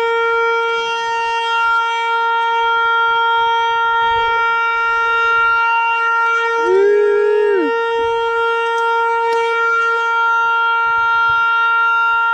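Dam warning horn sounding one long, steady note, the signal that the dam's generators are about to start releasing water.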